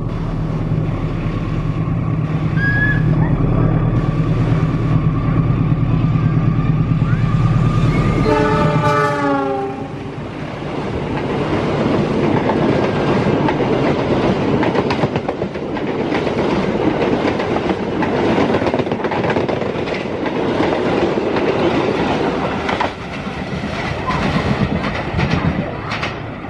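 A diesel locomotive hauling a passenger express through a station at speed without stopping. Its engine drone builds, then a horn note drops sharply in pitch as the locomotive passes about nine seconds in. After that comes the continuous rush and clatter of the coaches' wheels going by close at hand.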